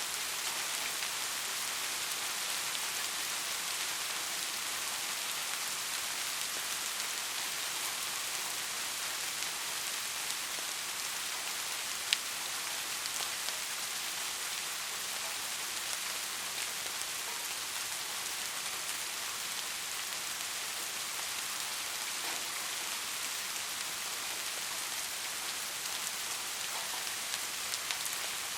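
Steady rain falling as an even hiss, with one sharp tick about twelve seconds in and a few lighter ticks near the end.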